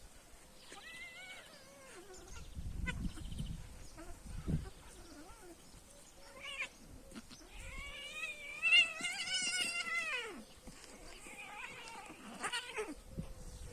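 A cat yowling: a short call about a second in and a long, wavering caterwaul from about eight seconds in, with a few dull thumps between them.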